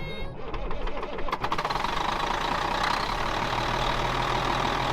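John Deere 624K wheel loader's diesel engine running steadily. The customer took the engine for blown; diagnosis points to a failed EGR cooler pushing coolant out of the exhaust.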